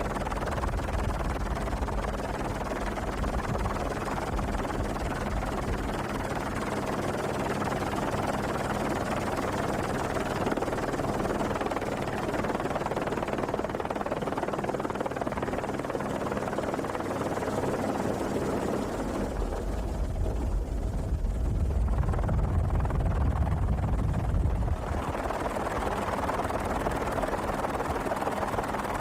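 A steady mechanical drone with a rushing noise, like an aircraft or engine heard from close by. About twenty seconds in it gives way to a louder low rumble for several seconds, then returns.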